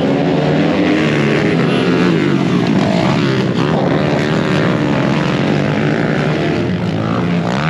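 A pack of modified pit bikes racing, several small motorcycle engines revving hard and rising and falling in pitch over one another as the riders shift and jostle for position.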